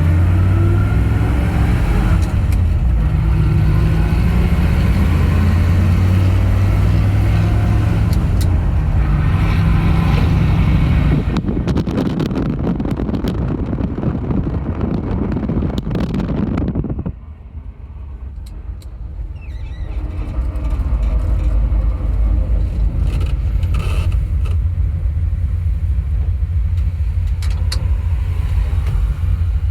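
1962 Dodge D-series truck driving under power, its engine running loud with a low drone whose pitch steps up and down over the first ten seconds or so. About seventeen seconds in the sound drops off sharply for a few seconds, then the engine builds back up to a steady drone.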